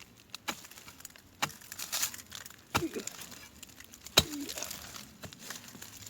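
Scattered knocks and rustling from digging out a serut tree stump, with a sharp knock about four seconds in, the loudest of them.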